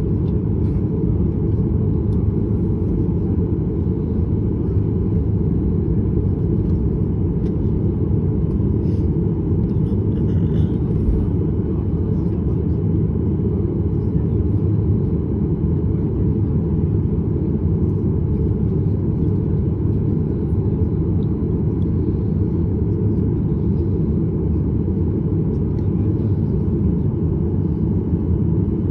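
Steady low rumble of a Boeing 737 heard from inside the passenger cabin, engines and airframe running at an even level without any rise in pitch.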